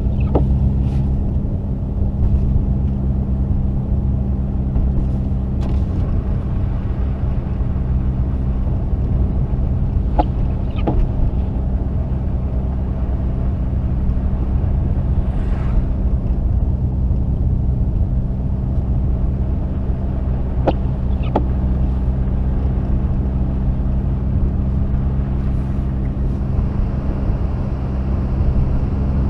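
Mazda RX-8 driving at steady speed: a steady low drone of its rotary engine together with road and tyre noise, with two pairs of light clicks, about ten seconds apart.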